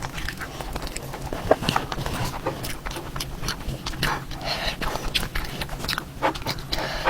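A person eating with their mouth close to the microphone: irregular wet chewing, lip-smacking and mouth clicks.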